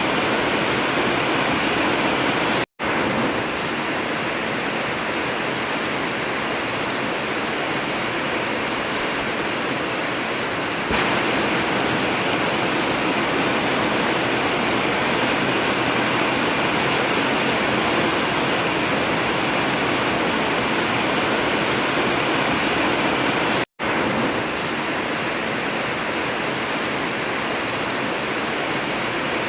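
Heavy rain falling steadily on an old tin metal roof, a dense even hiss. It cuts out completely for a split second twice, about 3 seconds in and again near 24 seconds.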